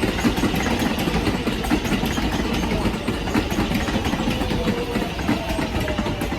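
IRT subway train running with a dense, steady rumble; from about four seconds in, a motor whine falls slowly in pitch.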